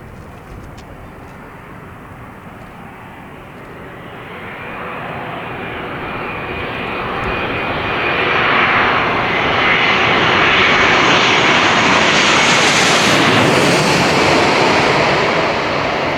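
Jet airliner passing low overhead on its landing approach: the engine noise builds over several seconds to a loud, steady peak with a high fan whine, then starts to ease off near the end.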